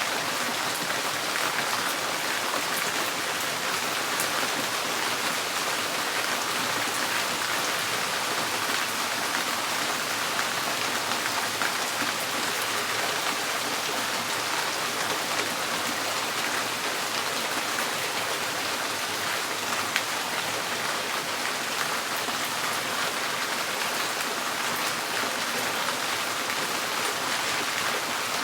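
Steady rain drumming on a tin porch roof, a dense even patter of drops with sharp individual ticks throughout.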